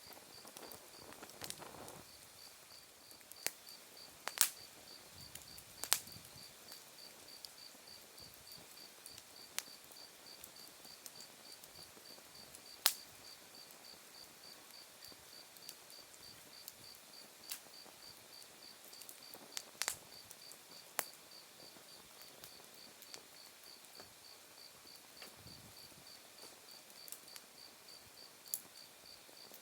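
Wood fire burning down to embers, with sharp crackles and pops from the burning wood every few seconds, the loudest about four, six, thirteen and twenty seconds in. Under it, autumn insects, crickets, chirp in a steady, evenly pulsed high trill.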